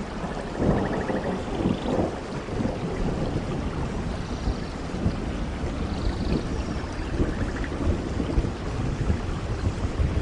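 Steady heavy rain in a rainforest with a low rumble underneath. A few short high calls and a brief buzzy trill sound faintly through the rain.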